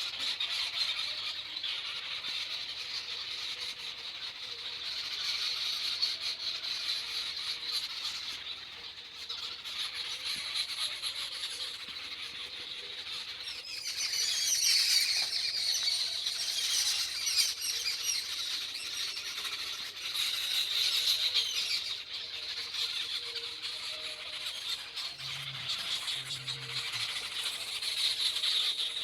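A dense chorus of many birds chirping and calling, swelling and fading, busiest about halfway through.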